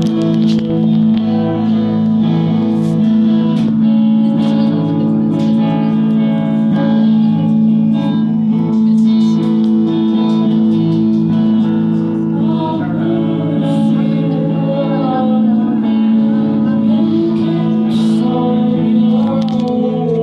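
Live band music led by guitar, loud and continuous.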